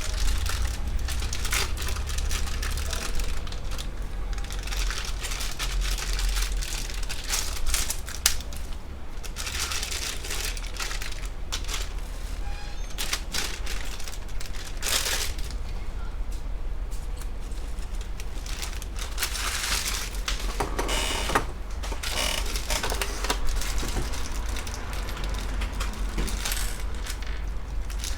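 Scattered clicks, taps and rustling of hands handling computer parts and their packaging, over a steady low hum.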